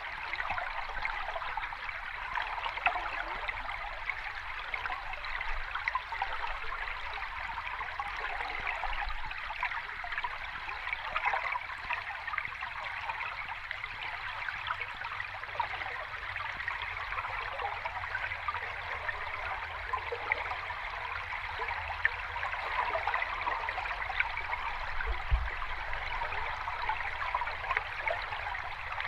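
Water moving steadily, a dense fizzing and trickling with many small splashes and no clear rise and fall of breaking waves.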